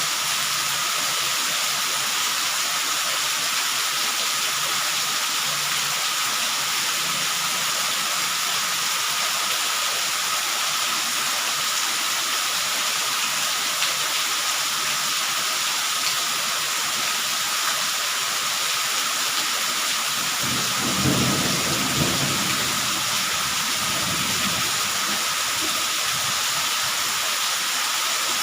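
Steady rainfall hissing throughout. About two-thirds of the way through, a low roll of thunder rumbles for several seconds and fades.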